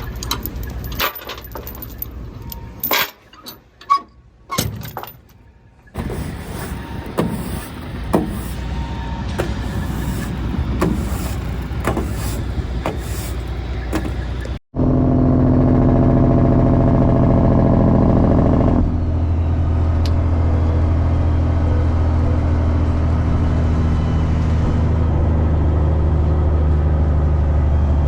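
Scattered knocks and clanks, then a straight-piped truck engine running with a loud, deep, steady exhaust note. It is loudest for a few seconds about halfway through, then settles into a steady drone.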